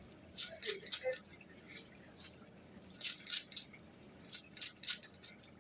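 Kitchen scissors snipping through green onions, about a dozen quick crisp cuts in small irregular groups.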